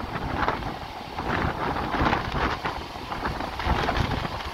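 Running noise of a moving electric local train heard at its open door: wheels clattering on the rails and wind rushing over the microphone, with a container freight train running close alongside on the next track.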